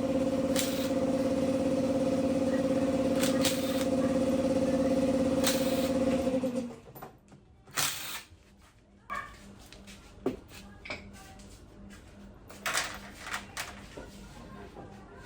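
A small electric power tool runs at a steady pitch and stops abruptly about seven seconds in. After that come light clicks and clinks of metal parts and tools being handled.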